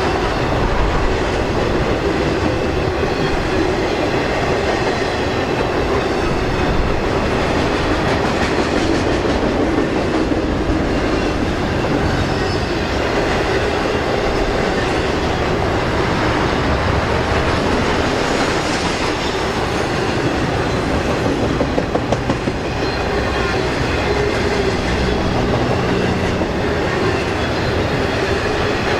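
BNSF intermodal freight train carrying trailers rolling past steadily.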